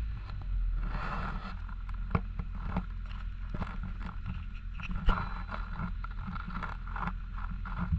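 2018 Honda Civic 2.0L inline-four engine running steadily, a low drone with irregular clicks and taps over it and one sharper click about five seconds in.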